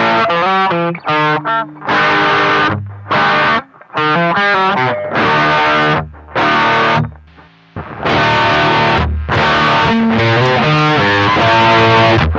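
Distorted electric guitar, a Gretsch 6228, playing a rock riff of short, sharply stopped chords. There is a brief pause about seven seconds in, then longer ringing chords.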